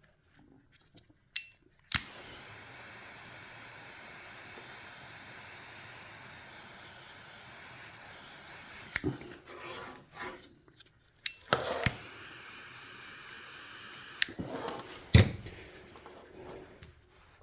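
A small electric bench tool clicked on and running with a steady whir for about seven seconds, switched off, then run again for about two seconds, with clicks and knocks of handling on the bench in between and a loud knock near the end.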